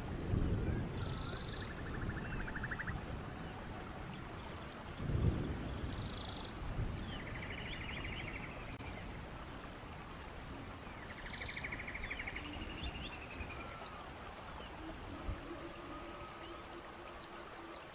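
Birds singing: short chirped phrases and buzzy trills, repeated every few seconds, over a low rumbling background noise that swells about five seconds in.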